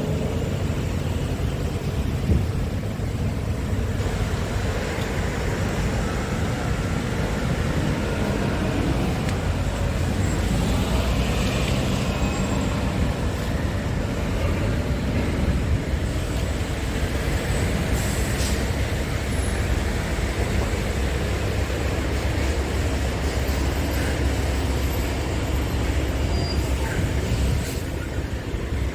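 Scania R410 truck's 13-litre six-cylinder diesel engine running steadily, its pitch rising and falling a little at times, with a short sharp hiss or click about two-thirds of the way through.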